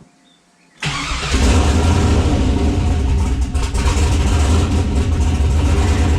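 Turbocharged 6.0-litre V8 cranking briefly and firing about a second in, then running steadily and loud. It is held on a touch of throttle because, with its aftermarket cam and untuned original calibration, it won't idle on its own.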